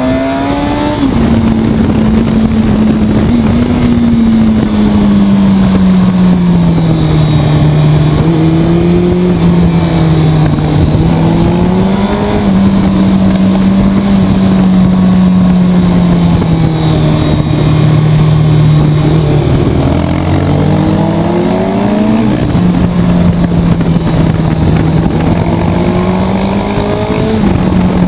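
Honda CBR sport bike's inline-four engine under way, heard from on the bike: the engine note rises and falls with the throttle through the bends, with a few sudden drops in pitch, over steady wind and road rush.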